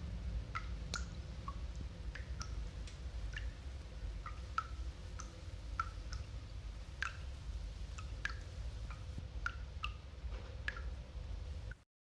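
A sound-effects record track of irregular short plinks, about two a second, over low record rumble, cutting off abruptly near the end.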